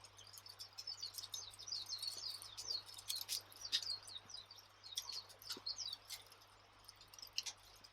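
Wood fire crackling with sharp pops, mixed with small birds twittering in quick high chirps.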